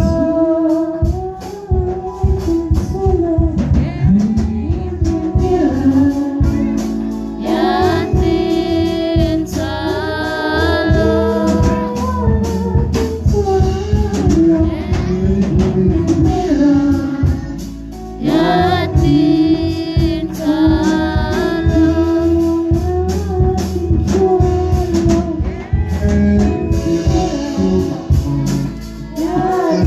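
Gospel worship song: voices singing a melody over a steady percussive beat and bass.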